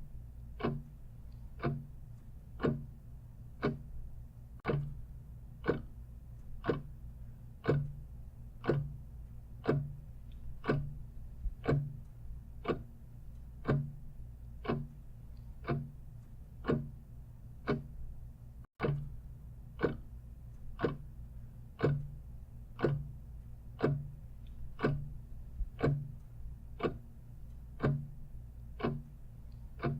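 Clock ticking steadily, about two ticks a second in an alternating tick-tock of louder and softer beats, over a faint low hum. The sound cuts out for an instant about two-thirds of the way through.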